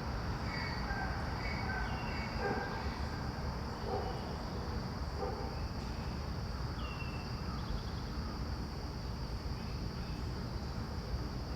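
Outdoor ambience: a steady low rumble and a steady high-pitched hum, with faint short bird chirps scattered throughout.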